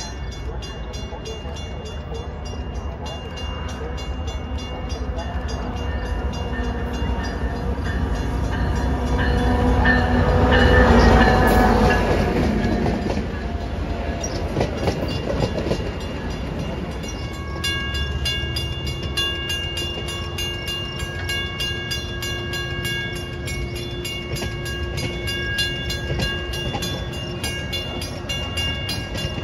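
Metra commuter train going by on the tracks: a steady rail rumble that swells to its loudest about eleven seconds in, then eases. Several steady high ringing tones join from about seventeen seconds in.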